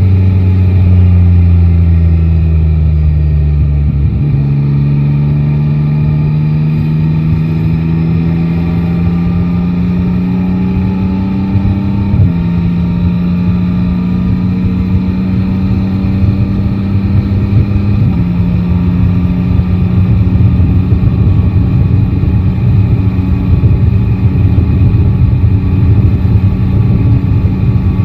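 Motorcycle's three-cylinder engine under way: its note falls for the first few seconds, then climbs steadily as the bike accelerates, dropping sharply at gear changes about twelve and eighteen seconds in, before settling to a steady cruise. Rushing wind and road noise build under it.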